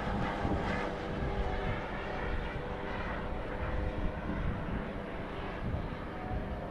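Radio-controlled model airplane's DA-50 gas engine running steadily in flight, a steady propeller drone with an even pitch.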